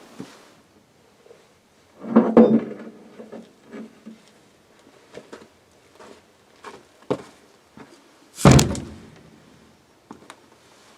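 Scattered metal clanks and knocks from heavy excavator track parts being handled, with a short run of ringing clanks about two seconds in and one loud heavy thunk about eight and a half seconds in.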